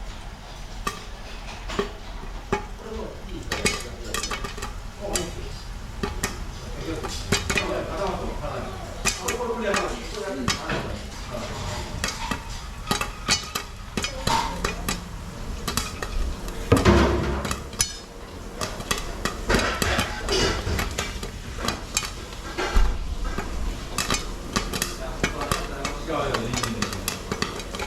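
Food sizzling in a pan while metal utensils stir, scrape and clink against it, with frequent sharp clicks and a louder knock about 17 seconds in.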